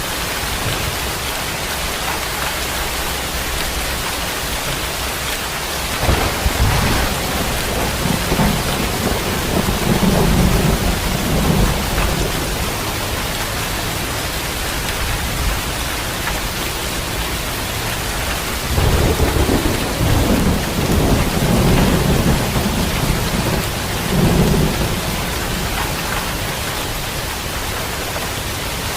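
Steady heavy rain, with thunder rumbling twice: a crack about six seconds in that rolls on for several seconds, and a second long rumble from about a third of the way to nearly the end.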